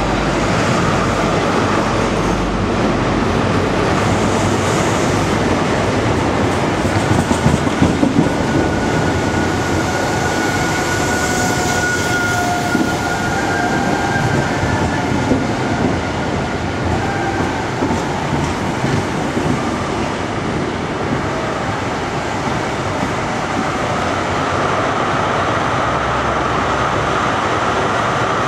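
A First Great Western InterCity 125 (HST) running in alongside the platform: the diesel power car passes, then the coaches roll by with a steady rumble and wheel clatter. A thin squeal comes from the wheels or brakes around the middle.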